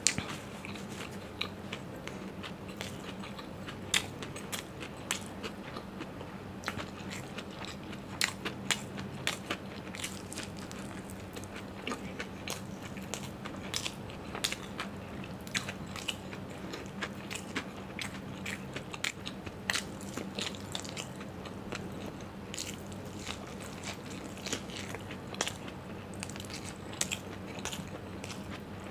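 Close-miked eating sounds: chewing with wet mouth clicks and crunchy bites of fried snacks, many sharp clicks scattered throughout, over a steady low hum.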